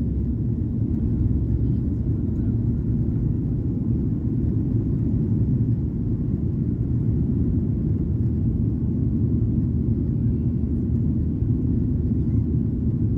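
Steady low rumble of a Boeing 737-800's CFM56 jet engines and airflow, heard from inside the passenger cabin during the climb after takeoff.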